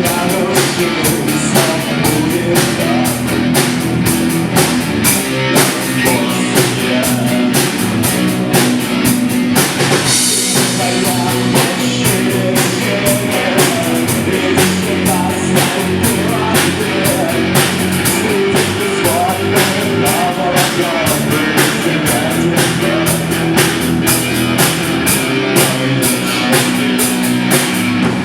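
Live rock band playing: drum kit keeping a steady beat under guitar and bass, with a bright crash about ten seconds in.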